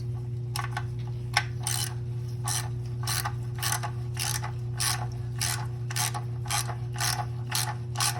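Hand ratchet wrench clicking in short, regular back-and-forth strokes, about two a second, as the oil filter housing cap is screwed down and tightened. A steady low hum runs underneath.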